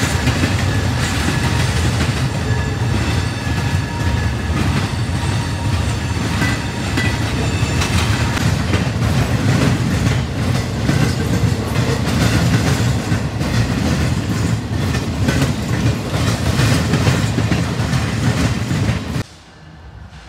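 Intermodal freight train rolling past at close range, steel wheels clattering over rail joints in a steady clickety-clack. The sound cuts off suddenly about a second before the end, leaving a much quieter background.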